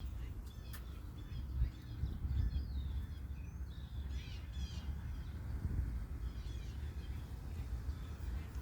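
Birds calling outdoors, a series of short chirping calls, over a steady low rumble.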